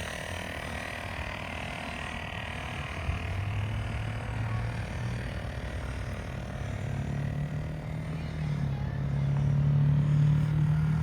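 A motor running with a low hum that comes in about three seconds in, drops back, then returns, rising slowly in pitch and growing louder toward the end.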